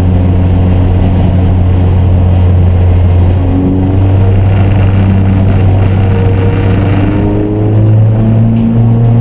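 Racing car engine running steadily under load, its pitch climbing slowly and changing step about three and a half seconds in and again near the end.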